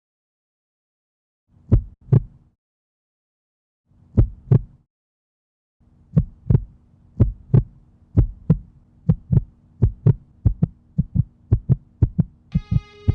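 Heartbeat sound effect: paired low thumps, at first two pairs with silence between, then from about six seconds in coming ever faster over a low hum. Music tones come in just at the end.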